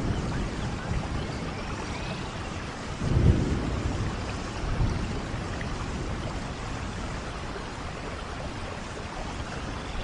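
Steady rainfall, an even hiss of falling rain, with a short low rumble about three seconds in and a fainter one near five seconds.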